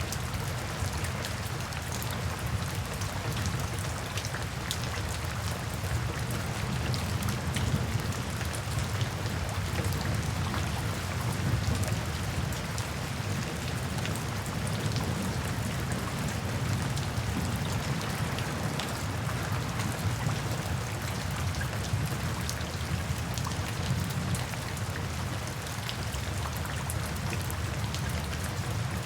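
Gentle rain falling steadily, with a dense patter of small drop ticks over a low, steady rumble underneath.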